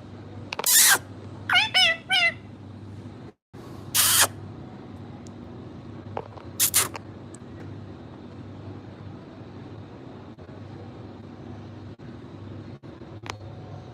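Pet Indian ringneck parakeet calling in loud, short, shrill bursts: one about half a second in, two shorter calls rising and falling in pitch near two seconds, then single calls at about four and seven seconds.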